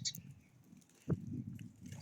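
Birds pecking and scrabbling on a feeder: irregular dull knocks and scrapes, with one sharper knock about a second in. A brief high chirp sounds right at the start.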